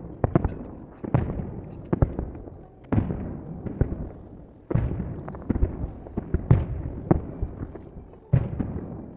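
Aerial fireworks shells bursting in quick succession: a string of sharp booms, each trailing off in echo, with bigger bursts every second or two and smaller crackling reports between them.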